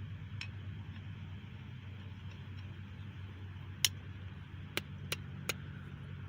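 A few sharp metallic clicks and clinks from camshaft bearing tool parts being handled and fitted into the engine block, the loudest about four seconds in and three more close together near the end, over a steady low hum.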